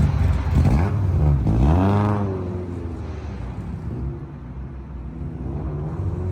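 A car engine revving: its pitch swings up and falls away about two seconds in, then drops back to a lower running sound that builds again near the end.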